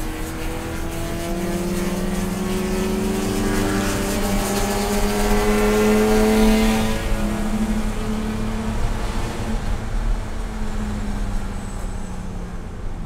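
Race car engine pulling hard, its pitch climbing slowly for about seven seconds, then easing off and running on more quietly.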